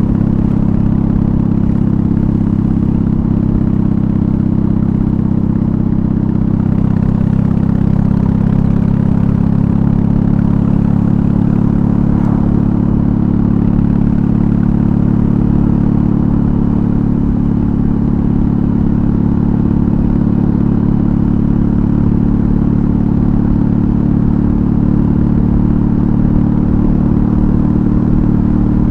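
BMW R18's 1.8-litre boxer twin running steadily under way through a custom exhaust, a deep even drone with a slight change in pitch about seven seconds in.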